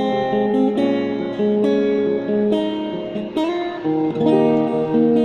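Acoustic guitar strumming a chord progression, a new chord struck about once a second, in an instrumental passage between sung verses.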